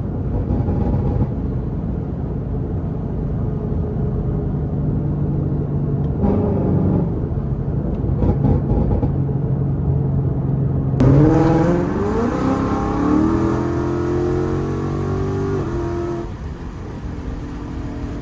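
Ford Mustang GT V8 through a Stainless Power and Ford Performance by Borla exhaust, running at a steady engine speed while driving. About eleven seconds in, the engine note rises as the car accelerates for a few seconds, then falls back.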